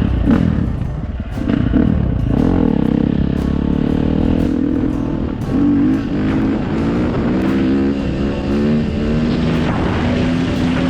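Dirt bike engine running under way, its revs rising and falling with the throttle and gear changes, more often in the second half.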